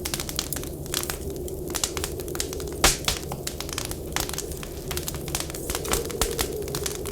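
Wood fire crackling with irregular sharp pops, the loudest a little under three seconds in, over a steady low whistling of wind.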